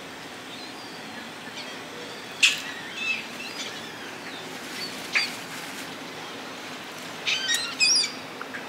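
Outdoor bird calls: a few sharp, short calls spaced a couple of seconds apart, then a quick run of chattering calls near the end, over a steady background hiss.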